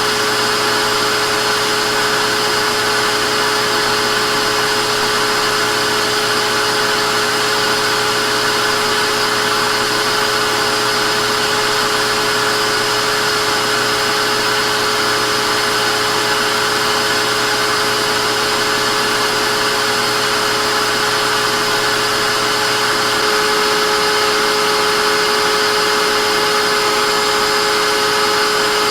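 Vacuum cleaner running steadily: a loud, even rush of air with a steady motor whine. About 23 seconds in, the low hum drops away and the sound gets slightly louder, with a new higher tone.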